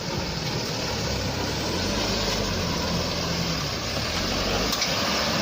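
A heavy vehicle's engine running steadily, with a broad noisy wash over it, starting abruptly.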